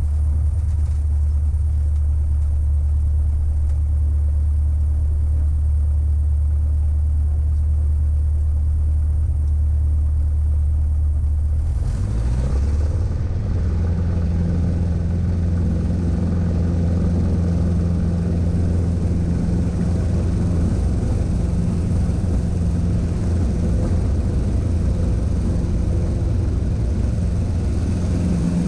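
Cessna 150's Continental O-200 four-cylinder engine running steadily, heard from inside the cabin. About twelve seconds in, the sound changes suddenly to a higher hum with more rushing noise.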